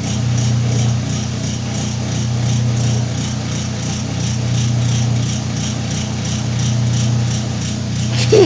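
Whirlpool washing machine running a wash cycle with a full load: a steady motor hum that swells and eases every couple of seconds as it agitates, with a brief sharp squeak near the end.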